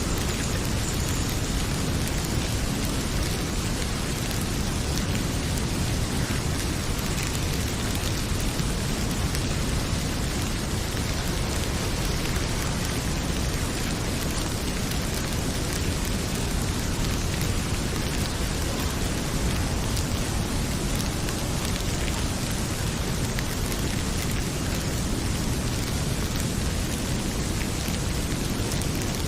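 Heavy rain pouring steadily, mixed with a crackling wood fire in a fireplace that adds faint, scattered pops.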